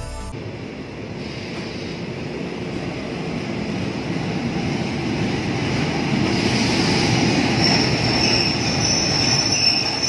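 Passenger train running along a station platform, the rumble of wheels on rails growing louder, with a high steel-wheel squeal joining in from about six seconds in.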